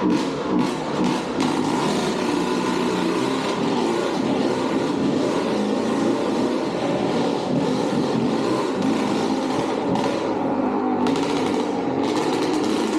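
Dirt bike engine running loud and steady, with a few revs in the first couple of seconds.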